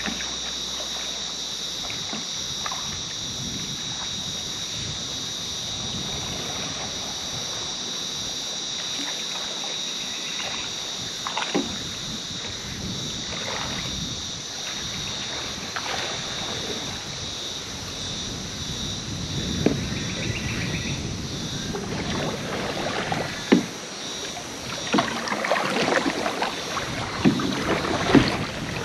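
Canoe paddle strokes dipping and splashing in calm river water, coming more often and louder over the last third, over a steady high-pitched drone.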